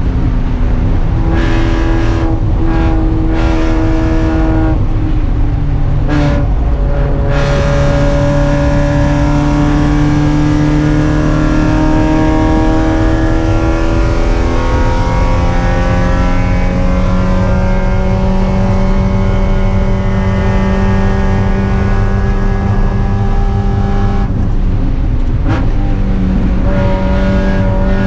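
Spec Miata race car's four-cylinder engine running hard at high revs, its pitch climbing slowly through long pulls. Brief lifts or gear changes break it a few times in the first several seconds and once more near the end.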